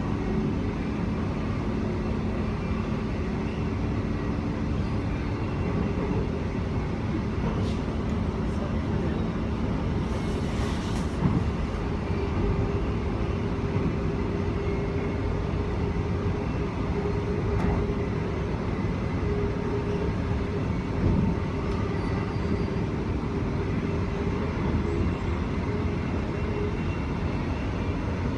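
Steady running noise of an electric commuter train heard from inside the carriage: wheels rumbling on the rails at speed, with a faint steady hum from the drive. A short hiss about ten seconds in.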